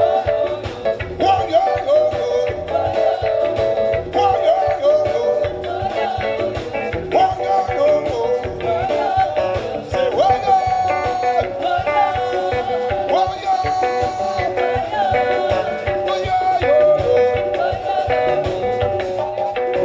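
Live band music with a steady beat and a sliding melodic lead line, without words.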